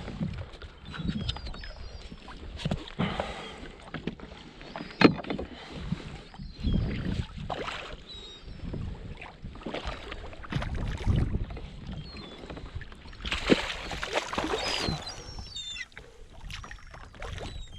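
Water sloshing and slapping against a fishing kayak's hull, with irregular knocks and bumps, the sharpest about five seconds in.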